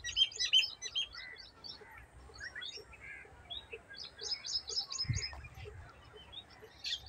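Small birds chirping: many short, high chirps, with quick runs of repeated notes at the start and again about four seconds in. A brief low thump about five seconds in.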